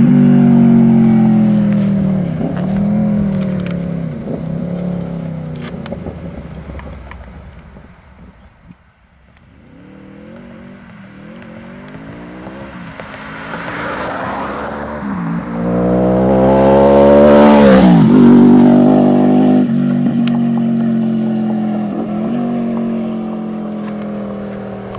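Yamaha V-Max motorcycle's V4 engine running and revving. It fades away, comes back up loud with a sharp drop in pitch as it passes, about three quarters of the way through, then settles to a steady run.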